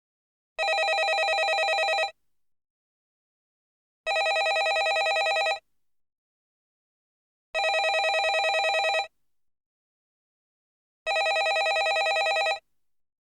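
Landline telephone ringing: four rings in a steady cadence, each about a second and a half long with a fast trill, followed by about two seconds of silence.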